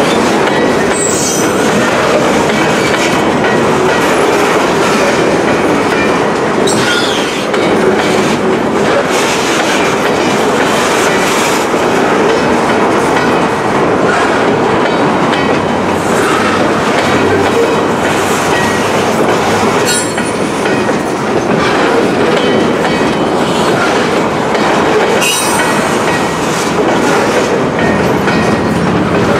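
Loaded freight flatcars carrying military trucks rolling past close by: a steady rumble of steel wheels with clickety-clack over the rail joints and a few brief wheel squeals.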